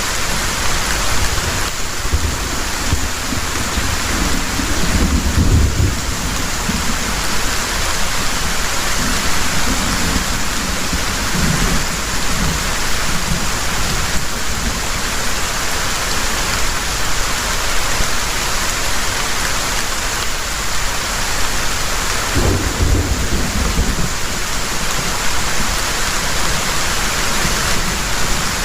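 Heavy rain pouring steadily, with rolls of thunder rumbling low twice, a few seconds in and again near the end.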